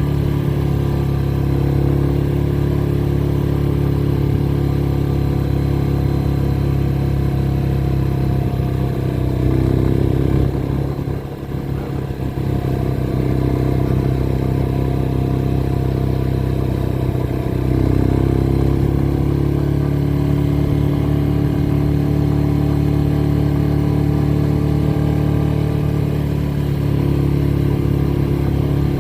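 Motorcycle engine running steadily while riding, with the engine note dropping and easing off briefly about eleven seconds in, then picking up to a new pitch a few seconds later.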